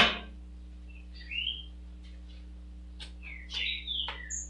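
A sharp knock at the very start, then a bird chirping in short gliding calls, once about a second in and several more near the end.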